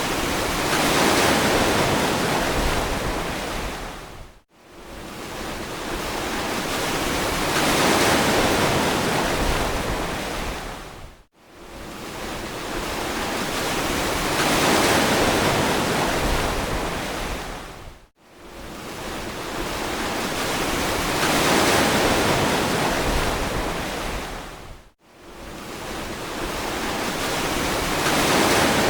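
Ocean waves washing onto a beach, a steady hiss of surf that swells and fades about every seven seconds. Between swells the sound cuts out suddenly for a split second, four times.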